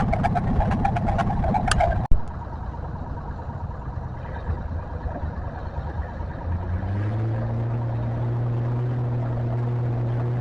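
Tractor engine running hard with a run of sharp ticks. It breaks off abruptly about two seconds in to a quieter engine sound, which from about seven seconds in rises slightly in pitch and then holds a steady drone.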